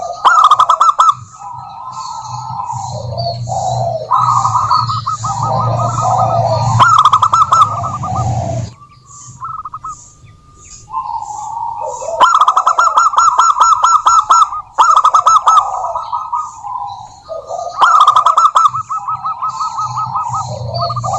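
Zebra doves cooing: repeated rapid trilled coo phrases, with small birds chirping high and thin above them and a short lull about nine seconds in.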